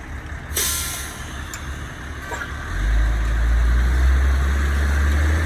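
A heavy truck on the street. A sharp hiss of air brakes comes about half a second in and fades, then a loud low engine rumble sets in just before the middle and holds.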